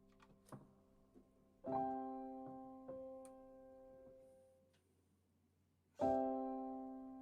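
Piano playing slow, sparse chords: a few faint clicks, then a chord struck just under two seconds in and left to ring and fade, a lighter note about a second later, and a second chord about six seconds in.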